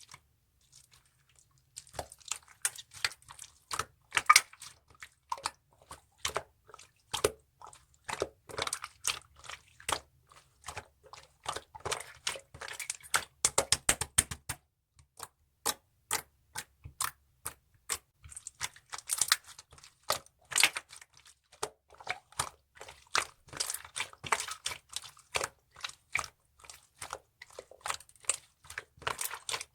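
Clear slime being squished and pressed by hand: an irregular run of sticky clicks and small pops, starting about two seconds in.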